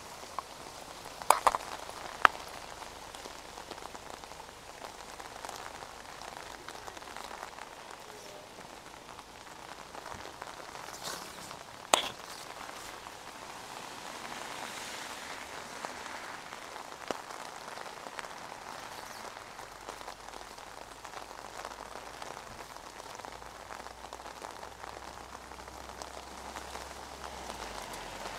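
Steady rain falling on wet paving, an even hiss of drops, with a few sharp louder taps: three close together a second or two in and one about twelve seconds in.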